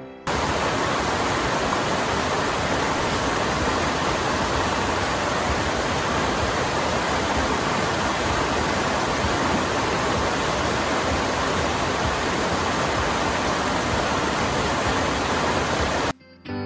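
Steady, loud rushing noise, even across the whole range, that cuts in abruptly just after the start and cuts out abruptly about a second before the end.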